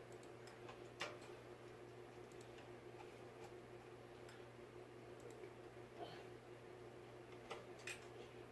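Near silence with a faint steady hum, broken by a few small clicks and taps from handling fan parts. The sharpest click comes about a second in, with two more close together near the end.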